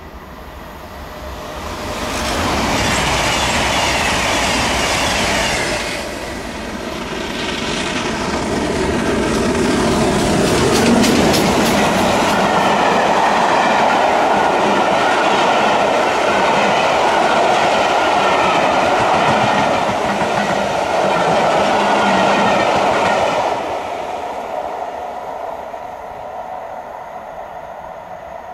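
A train passing by on the rails, building up over the first couple of seconds, staying loud for about twenty seconds, then fading away near the end.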